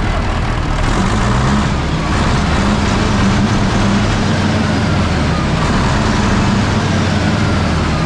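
Rolls-Royce turbo diesel engine running steadily, getting a little louder about a second in, with a faint high whine over the deep engine note.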